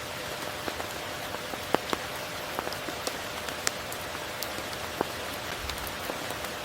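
Steady rain falling, with individual close drops striking at irregular moments, a few of them sharp and distinct.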